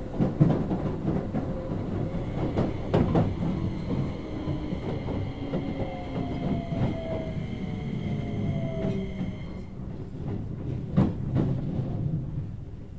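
Keio 8000 series electric train heard from inside the car: the Hitachi IGBT-VVVF inverter and traction motors whine in tones that fall slowly in pitch as the train slows, over steady wheel and rail rumble with a few sharp clunks. A high whine cuts off about ten seconds in.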